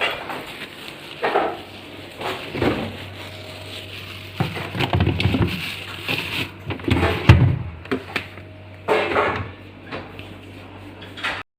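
Irregular knocks, bumps and rustles, loudest around the middle, with a low steady hum that sets in about three seconds in; the sound drops out abruptly just before the end.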